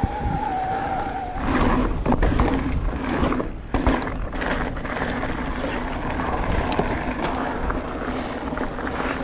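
Marin Alpine Trail E2 e-mountain bike ridden over a dirt trail: tyre rumble with rattles and knocks from the rough ground. A steady motor whine runs for about the first second and a half, then stops.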